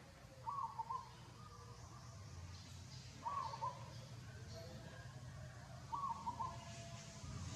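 A bird calling three times, a short warbling call about every three seconds, over a faint low background rumble.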